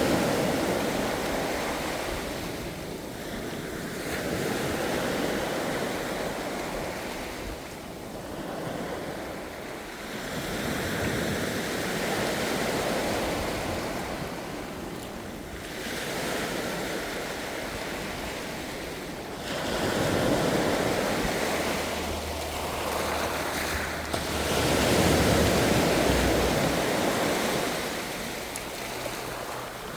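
Ocean surf: waves breaking and washing in, the rush of water swelling and easing every five to seven seconds.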